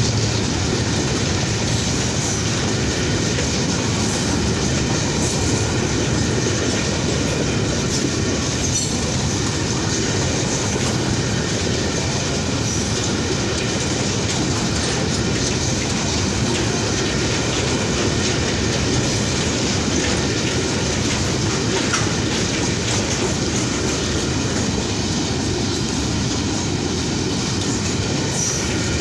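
Freight train's covered wagons rolling past close by: steel wheels running on the rails in a steady, unbroken train noise at an even level.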